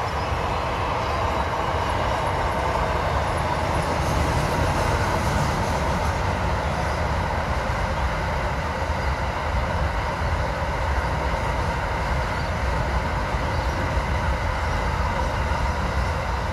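A train running past with a steady low rumble and continuous wheel-on-rail noise.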